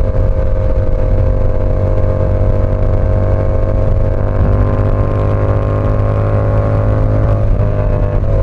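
Yamaha R7's 689 cc parallel-twin engine running at a steady cruising pace, its pitch holding level and dipping slightly near the end.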